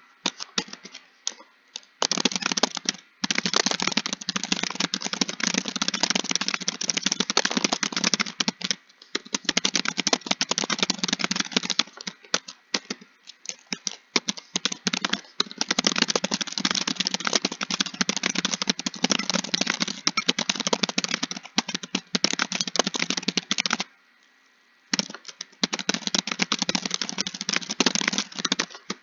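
Fast, continuous typing on a computer keyboard, a dense patter of key clicks broken by short pauses, the longest about a second long near the end.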